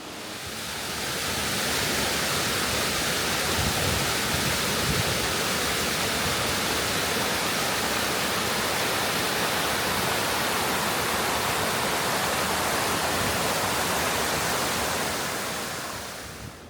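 Waterfall running down a hillside: a steady, even rush of falling water that swells in over the first two seconds and fades away near the end.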